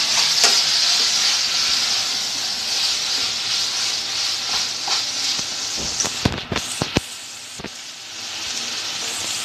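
Shredded young-coconut meat and flaked fish sizzling in a pot on a portable gas stove, a steady hiss that eases off around seven seconds in and then picks up again. A few sharp knocks about six to seven seconds in.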